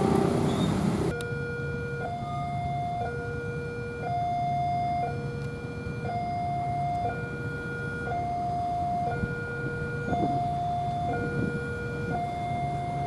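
Railway level crossing warning alarm: an electronic two-tone hi-lo signal, a lower and a higher note taking turns about once a second. Just before it, a passing train's noise and horn end abruptly about a second in.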